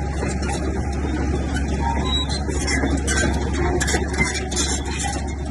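Bulldozer's diesel engine running steadily, with irregular metallic clanking and rattling over it throughout.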